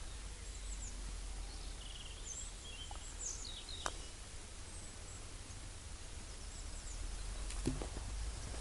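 Faint outdoor ambience: small birds chirping and twittering over a steady low rumble, with a single sharp click about four seconds in.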